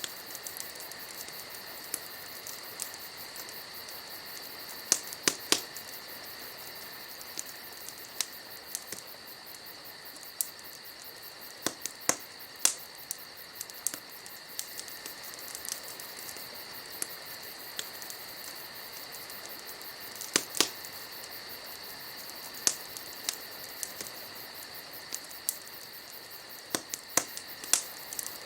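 Wood fire crackling with irregular sharp pops, a few louder snaps among them, over a steady chorus of crickets chirping.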